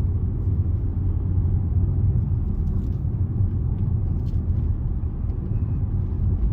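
Steady low rumble of a car driving along a road, heard from inside the cabin, with a couple of faint clicks midway.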